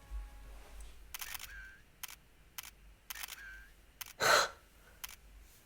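A series of short, sharp clicks, about six of them, spaced irregularly, with a louder brief swish about four seconds in.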